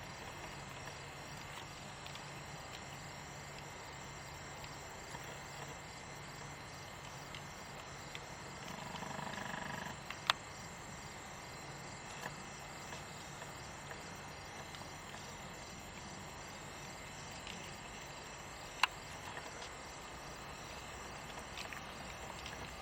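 Forest insects chirping in a steady, pulsing chorus. About nine seconds in, a brief tonal call with several pitches swells for a second or so. Two sharp clicks come later, one just after the call and one near the end.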